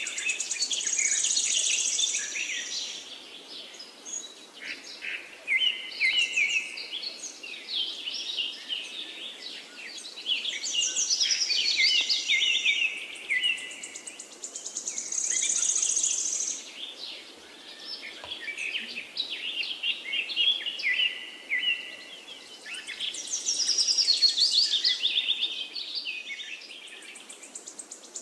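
Birds chirping and singing, many rapid high calls and trills that swell and fade every few seconds.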